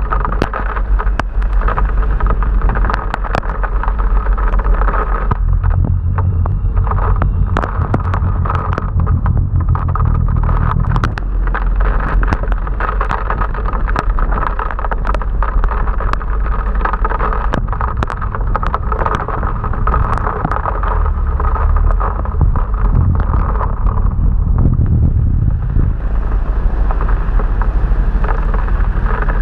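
Heavy rain and wind rushing over an action camera's microphone on a moving motorbike, a steady low rumble and hiss broken by frequent sharp ticks, with traffic running underneath.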